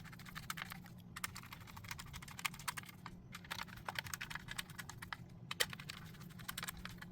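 Screws being driven back into a door-lock housing with a hand screwdriver: runs of rapid light clicking, with short breaks about a second in and again after three seconds.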